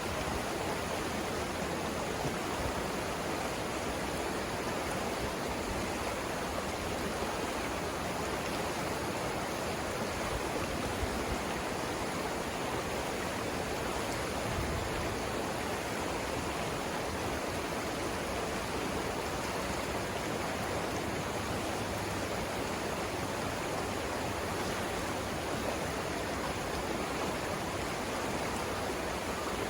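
Flowing water of the Savannah River rushing steadily, an even, unbroken sound.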